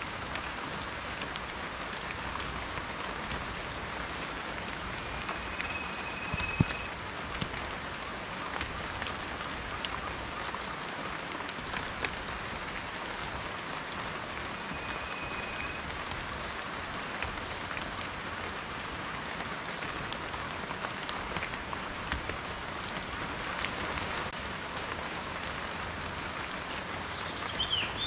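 Steady rain falling, with a dense patter of individual drops tapping close by and one louder drop hit about six and a half seconds in.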